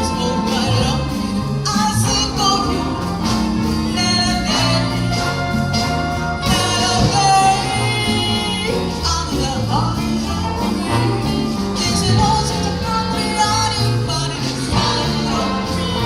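Live community band playing an upbeat tune: a bass line stepping from note to note about twice a second under melody instruments, with a steady drum beat.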